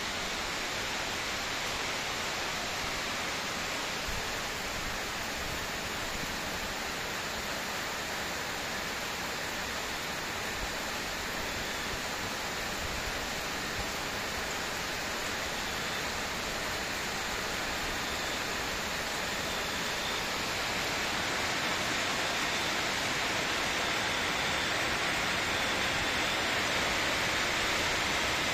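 Heavy rain falling steadily on roofs and streets, a dense even hiss that grows a little louder about two-thirds of the way through.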